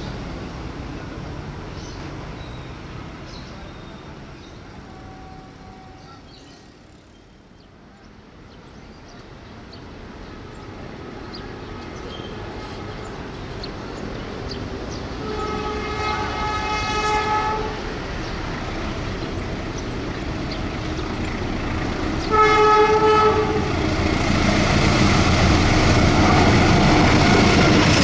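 Diesel locomotive approaching with its train, its engine and wheels growing louder. It sounds its horn twice: a long blast about halfway through and a shorter one about three-quarters of the way in. It is loudest near the end as it comes close.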